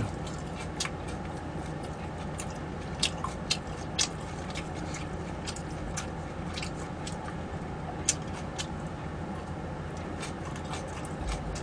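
A person chewing food close to the microphone: irregular mouth clicks and smacks, with a steady low hum underneath.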